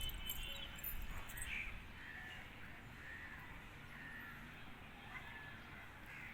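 Faint, distant bird calls repeated every second or so over a quiet background.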